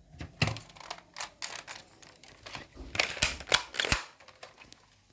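Toy gun being handled: a run of irregular sharp plastic clicks and rattles, coming in bunches, loudest between about three and four seconds in.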